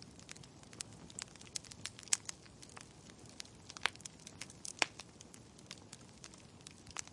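Burning wood logs crackling in a fireplace: a steady stream of small irregular snaps, with a few louder pops about two, four and five seconds in.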